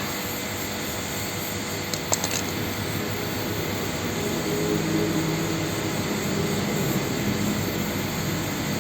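Gas blowtorch flame running steadily while heating lead for a battery terminal post repair, with a few light metallic clinks about two seconds in.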